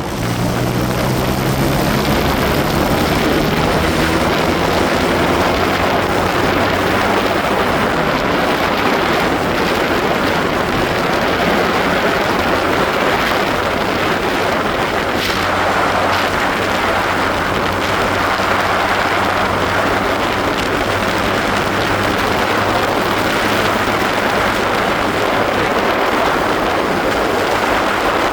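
Motorcycle engine pulling away, its pitch rising over the first few seconds, then running steadily at cruising speed under a loud, even rush of wind and road noise.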